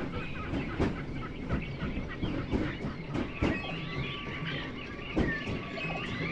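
Disneyland Railroad steam train rolling along, its passenger car's wheels clicking over rail joints at uneven intervals over a steady rumble. Chirping bird calls come in from about halfway.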